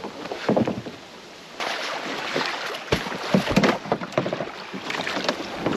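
Water sloshing and splashing around a canoe, with irregular knocks on the hull, and some wind on the microphone.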